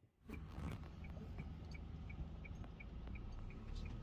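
Low steady rumble of a car heard from inside the cabin, starting abruptly, with a quick regular ticking, about four to five ticks a second, over it.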